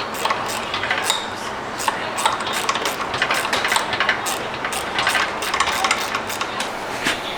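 Irregular metallic clinks, taps and knocks of hand tools and loose parts against the engine's metal, several a second and unevenly spaced.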